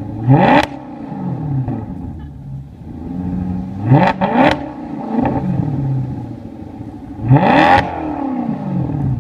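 2015 Subaru WRX STI with an aftermarket exhaust, revved three times: each time the exhaust note climbs sharply, then falls back toward a lower steady note.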